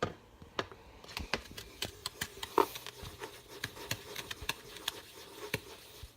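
A string of irregular light clicks and taps from objects being handled, with a faint steady hum underneath.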